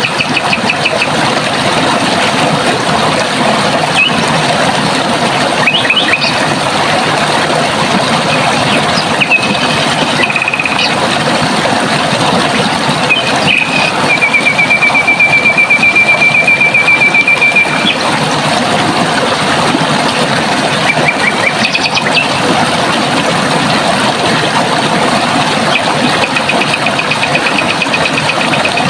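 Running water making a steady rush, with a small bird calling over it in short chirps and fast trills. About halfway through, one rapid, even trill lasts about four seconds.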